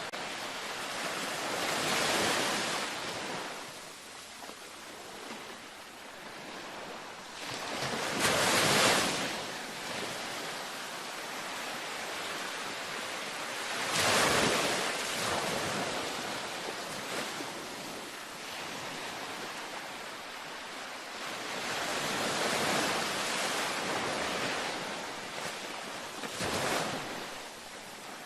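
Gentle ocean waves breaking on a beach: about five surges of surf rise and wash out, spaced several seconds apart, over a steady hiss of water. The two loudest waves come about a third and a half of the way through.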